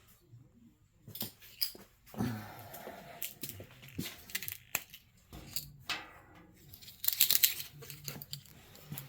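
Scattered metallic clicks, clinks and knocks as steel angle iron and small tools are handled on a metal surface. One knock about two seconds in rings briefly, and a quick run of clicking comes about seven seconds in.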